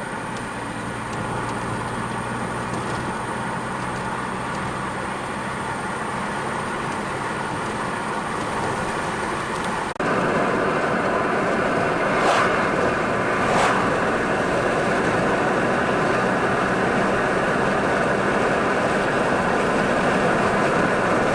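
Steady road and tyre noise of a car driving along the highway. About ten seconds in the noise jumps suddenly louder and stays so, with two brief thumps soon after.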